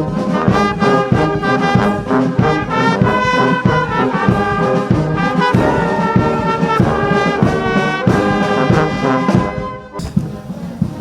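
Brass band playing a melody led by trombones and trumpets, in notes that change every fraction of a second. About ten seconds in, the music cuts off suddenly to something quieter.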